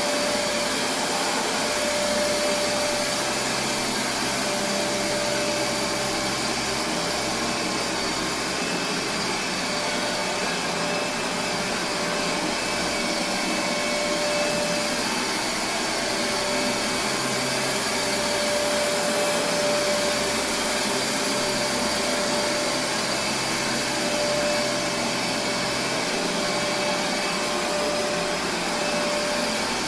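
Kenmore Progressive DirectDrive upright vacuum cleaner running steadily, its motor giving a whining tone that drops out and comes back a few times.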